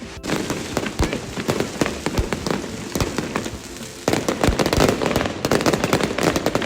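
Fireworks display going off: a dense crackle of small bursts with scattered deeper booms. It starts suddenly and grows thicker and louder about four seconds in.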